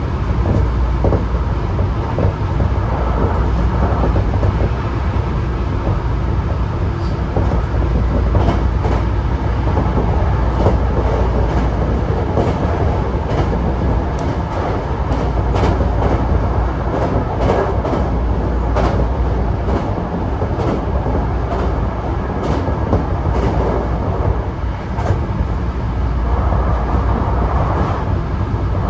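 Hankyu Kyoto Line electric train running, heard from inside the leading car: a steady low rumble with irregular clicks of the wheels over rail joints, thickest in the middle stretch.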